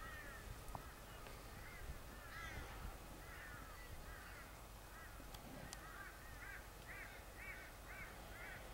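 Birds calling: a faint series of short repeated calls, coming quicker and more evenly spaced in the last few seconds.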